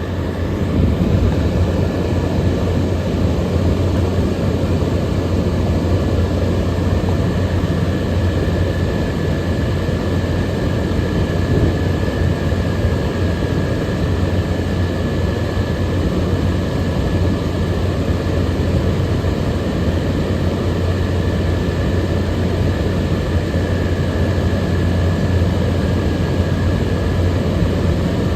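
Frigidaire 18,000 BTU air conditioner running steadily: an even rushing noise over a strong low hum, with a thin high whine held throughout.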